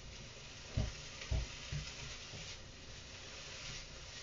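Frozen corn and small peppers sizzling quietly in a hot pan while being stirred with a spatula, with a couple of soft knocks about a second in.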